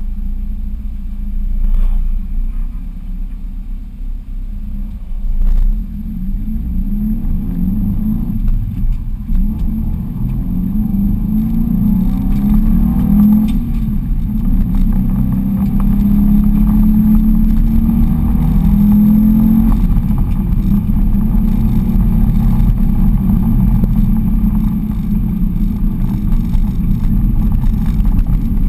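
Subaru Impreza wagon's flat-four boxer engine heard from inside the cabin, revving up again and again as the car accelerates through the gears, then running hard at steady high revs. A couple of short knocks sound in the first few seconds.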